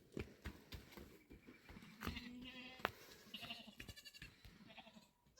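Goats bleating: a few short, quavering bleats from about two seconds in, among faint knocks.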